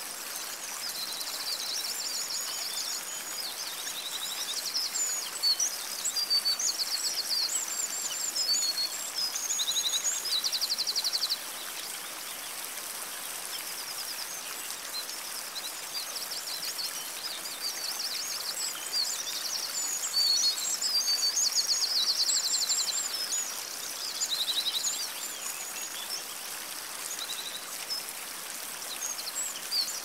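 Songbirds singing: high chirps, whistles and rapid trills that come and go, over a steady background hiss.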